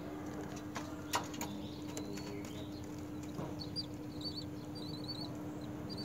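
Short, rapid high-pitched bird chirps from about four seconds in, over a steady low hum. A few sharp clicks come near the start, the loudest a little over a second in.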